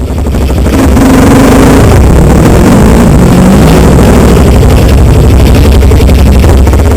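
Dirt bike engine running loud and close as the bike is ridden, its pitch rising and falling with the throttle. The sound grows loud within the first second and then holds.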